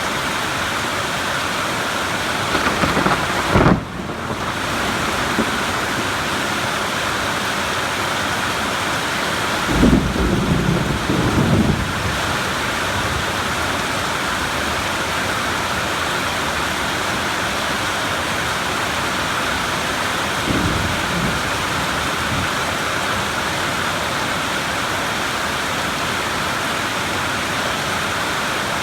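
Steady heavy rain with rolling thunder. A rumble builds about three seconds in and breaks off abruptly, a longer, louder rumble comes around ten seconds in, and a fainter one follows about twenty seconds in.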